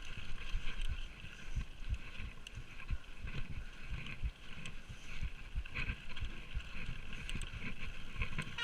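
Orange Five 26-inch full-suspension mountain bike riding fast down a rough singletrack trail: a continuous rushing and rattle with frequent irregular knocks and thumps as the wheels and suspension hit roots and rocks.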